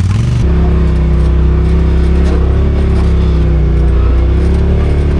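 Side-by-side off-road vehicle engine running steadily under way, holding an even pitch, with an abrupt change in its sound about half a second in.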